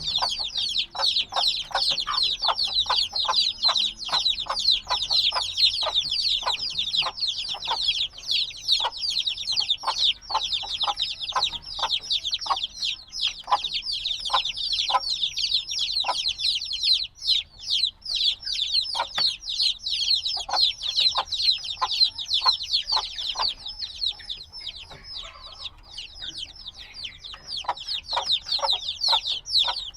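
A brood of newly hatched chicks, a few days old, peeping nonstop: many high, quick, falling chirps overlapping one another. The chirping thins out briefly near the end.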